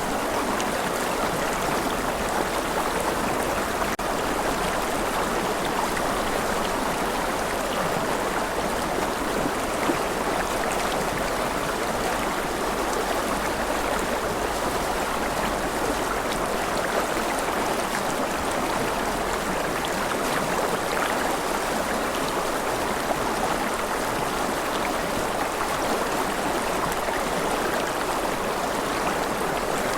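Gentle rain falling steadily: an even, unbroken hiss of many drops that neither builds nor dies away.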